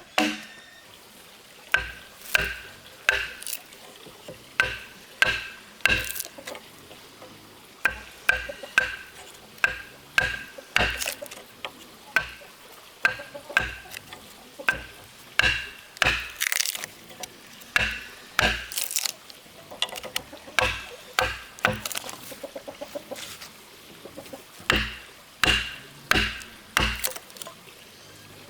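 Repeated blows of a hand tool on wood, about one to two a second with a few short pauses, each strike with a brief ring.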